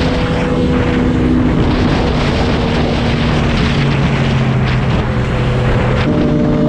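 Motorcycle engine running at a steady cruise under heavy wind rush over the microphone. The engine note drops around three and a half seconds in and rises again near the end.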